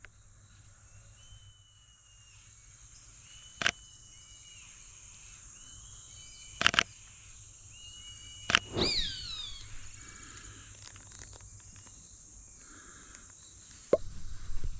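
Tropical forest sounds: a steady high insect drone with short whistled bird notes, and one loud, falling bird call about nine seconds in. Sharp clicks sound about three and a half, six and a half and eight and a half seconds in.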